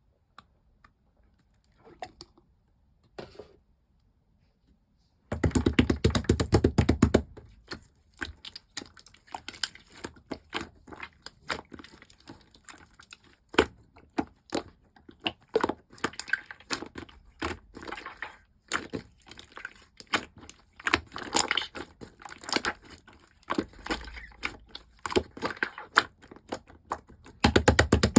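Clear slime being squished and pressed by hand, making dense wet clicks and small popping crackles. Only a few scattered clicks at first, then a steady run of clicking from about five seconds in.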